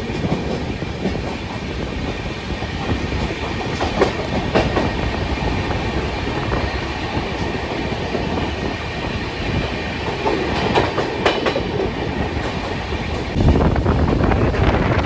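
Janshatabdi Express passenger train running on the rails, heard from aboard a coach: a steady rumble of wheels on track with scattered clicks. It grows louder near the end.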